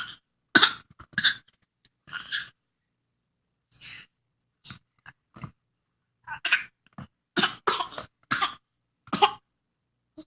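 Baby coughing again and again while eating banana chunks, in short bursts with pauses between them, most of them bunched in the second half. The mother asks if he is okay right after, which fits him coughing on a piece of banana.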